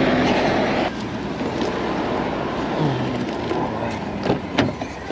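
Tram running along its track, a steady rumbling noise that drops somewhat about a second in, with a few sharp clicks and knocks near the end.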